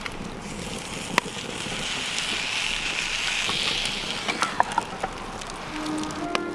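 Hissing sizzle with scattered sharp crackles and pops, typical of pork belly grilling over a wood fire. The hiss swells in the middle and eases off again.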